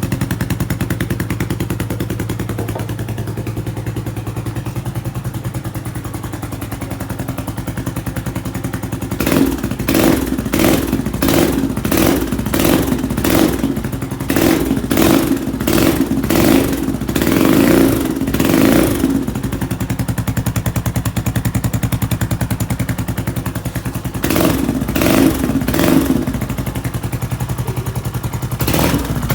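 Yamaha XT250X single-cylinder four-stroke engine running just after a top-end rebuild with a high-lift cam: it idles steadily, then is blipped on the throttle about once a second for some ten seconds, settles back to idle, and is blipped a few more times near the end.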